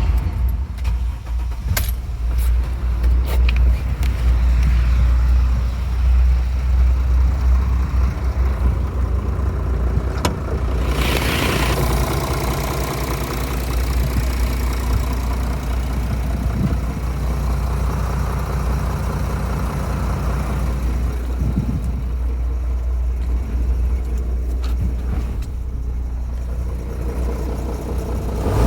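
Engine of a 2011 Mercedes-Benz E300 V6 running with a steady low rumble, including the strange noise the owner is asking about. A few sharp clicks sound in the first few seconds, and a short noisy burst comes about eleven seconds in.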